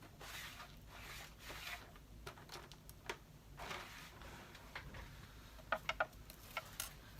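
Paper being handled and shuffled on a craft table, soft rustling swishes, with a quick run of three or four sharp clicks about six seconds in.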